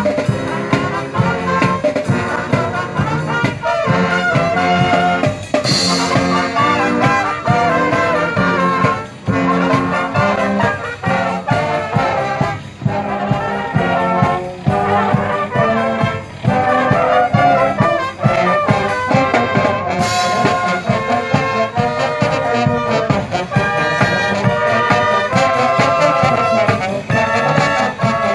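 Marching band playing: brass (trumpets and trombones) carrying the melody over steady drum beats, with an occasional crash high in the mix.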